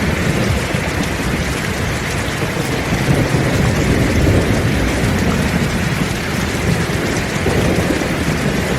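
Heavy rain pouring steadily, with a low, continuous rumble of thunder underneath and no sharp thunderclap.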